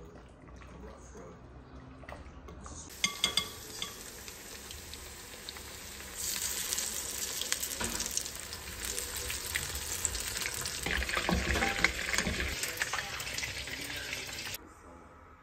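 Battered chicken pieces frying in hot oil in a frying pan: a steady sizzle and crackle that starts with a few sharp clicks about three seconds in, grows louder from about six seconds in, and cuts off suddenly about a second before the end.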